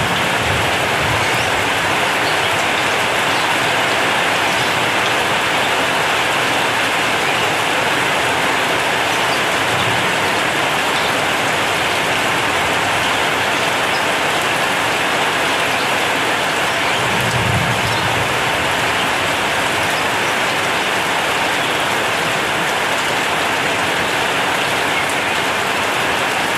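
Heavy rain falling on a zinc sheet-metal roof: a steady, even hiss. A few brief low rumbles come about ten seconds in, again past halfway, and near the end.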